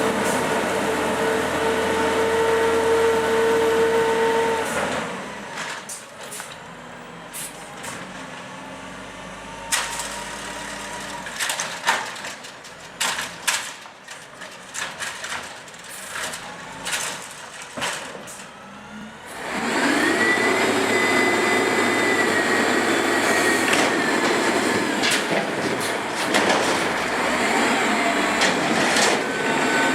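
Automated side-loader garbage truck working. The engine and hydraulics run loud with a steady whine, drop to a quieter stretch of clanks and knocks about five seconds in, and come back loud near twenty seconds in with a rising whine.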